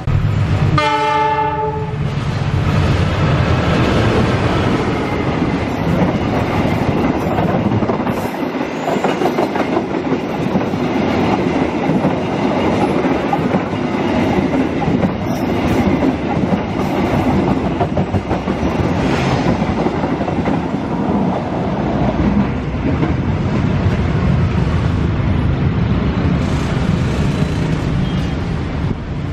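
A train horn sounds for about a second and a half, then a long passenger train passes close by at speed. Its wheels clatter on the rails and the coaches rumble past in a loud, steady stream.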